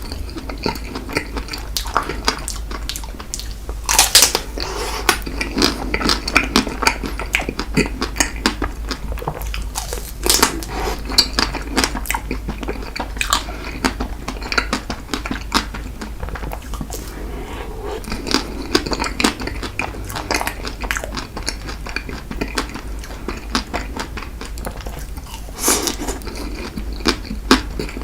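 Close-miked eating of a strawberry chocolate ice cream cake: chewing and wet mouth sounds with many small clicks, and utensil clinks against the dish. It gets louder around 4 s, 10 s and near the end, over a steady low hum.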